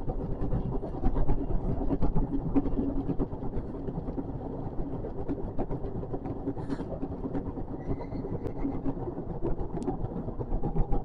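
JR West 521 series electric train running along the line, heard from inside the front car: a steady rumble with frequent small clicks and rattles from the running gear. A faint, short high tone comes in about eight seconds in.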